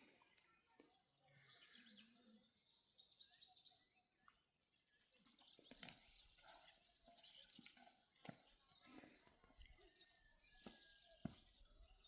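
Faint outdoor ambience: small birds chirping now and then in the distance, with a few sharp clicks.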